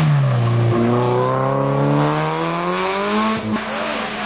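Rally car engine under hard acceleration: the revs drop at the start, then climb steadily through one gear for about three seconds. Near the end they break briefly for an upshift, then pull on.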